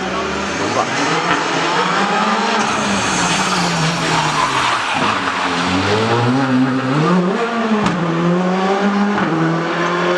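Rally car engine revving hard on a special stage, its pitch falling and then climbing again about six to seven seconds in through gear changes, before holding fairly steady near the end.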